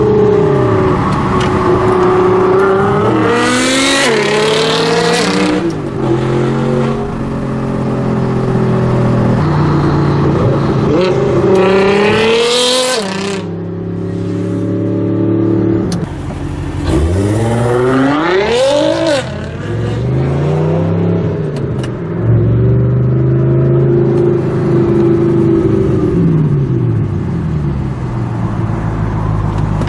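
Nissan GT-R R35's twin-turbo V6 through an Armytrix titanium valvetronic exhaust, loud and heard on board under hard acceleration. There are three steeply rising pulls, about three, eleven and seventeen seconds in, each ending in a sudden drop in revs. In the last third the engine runs at a steadier note that rises and falls gently.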